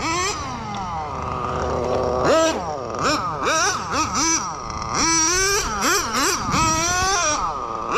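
Kyosho FW06 nitro RC touring car's .12 glow engine revving hard during a speed run, its high pitch rising and falling repeatedly as the throttle is opened and let off, with several quick blips near the middle.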